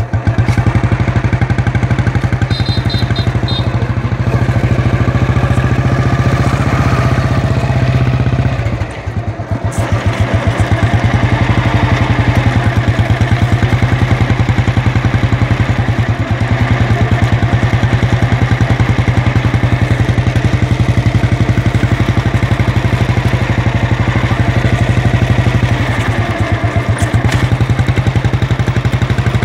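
Old Royal Enfield Bullet's single-cylinder engine running loud and steady with an even beat of exhaust pulses. The engine note drops briefly about nine seconds in, then settles back to the same steady running.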